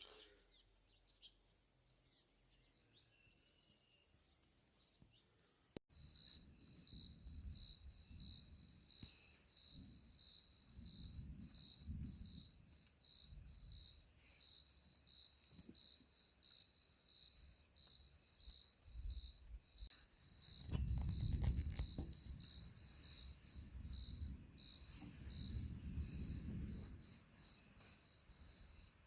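Crickets chirping steadily at about two to three chirps a second, cutting in abruptly about a fifth of the way through after near silence with a faint steady high whine. Intermittent low rumbles swell under the chirping, the loudest about three-quarters of the way through.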